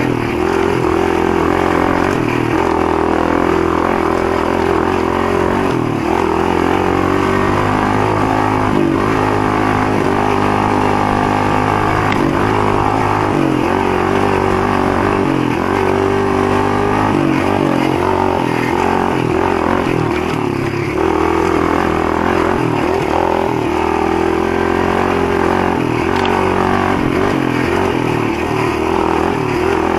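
Motoland GF125 pit bike's single-cylinder four-stroke engine running under way, its revs rising and falling repeatedly as it is ridden.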